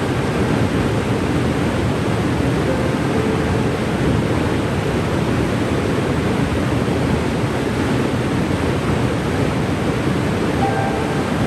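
Cane River Falls, a waterfall, rushing with a steady, even roar of falling water.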